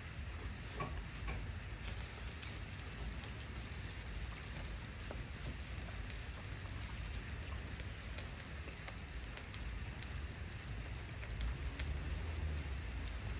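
Steady rain falling, with many scattered small ticks throughout and a brighter hiss that comes in about two seconds in.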